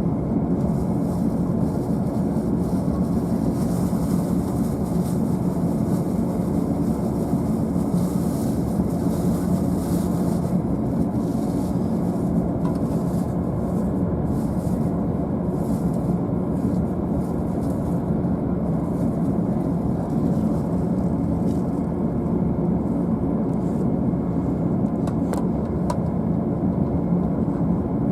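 Steady hum and rush of a stationary JR East E531-series double-deck commuter car's onboard equipment, heard from the upper deck, with a couple of faint clicks near the end.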